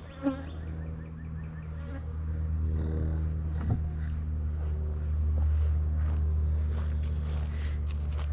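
Swarm of honey bees buzzing steadily, growing louder about halfway through. A short knock comes just after the start and another about four seconds in.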